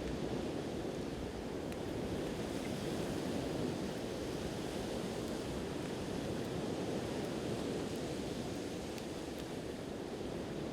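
Steady wash of sea surf, with a few faint crackles from a wood campfire.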